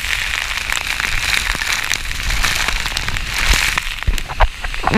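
Loud, steady rushing noise of a high waterfall and its spray, broken by many small crackling taps and a few stronger pops near the end.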